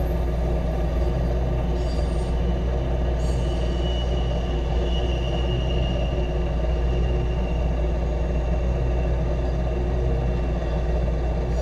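Intermodal freight train's cars rolling past: a steady rumble of steel wheels on rail, with a thin high squeal drifting in a few seconds in and fading out.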